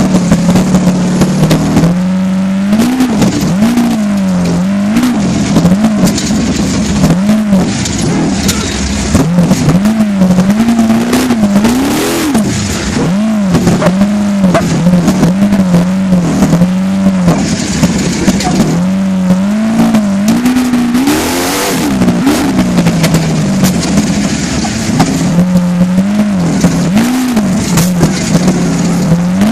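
Trophy truck engine being driven hard, its pitch rising and dipping again and again as the throttle is worked, with sharp loud knocks scattered through.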